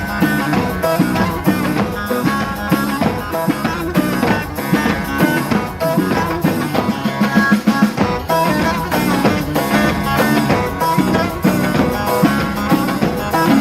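Instrumental Turkish folk music, played live, led by plucked string instruments, with no singing.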